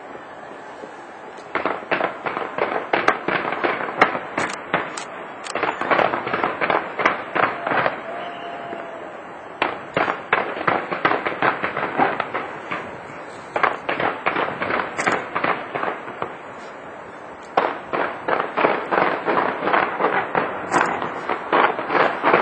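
A fireworks display: rapid volleys of bangs, several a second, coming in four long runs with short lulls between them. During the lulls there is a steady background din.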